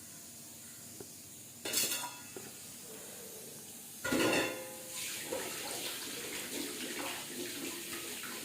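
Kitchen dishes clattering twice, the second time louder and ringing, followed by a tap running steadily into the sink.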